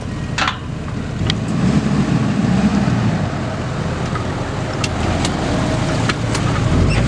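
A farm vehicle's engine running close by, a steady low rumble, with a few faint clicks over it.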